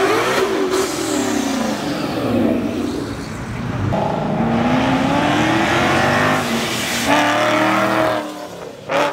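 Car engines revving hard as they accelerate away. The pitch falls in the first few seconds, then a long rising pull begins about four seconds in and cuts off sharply near the end.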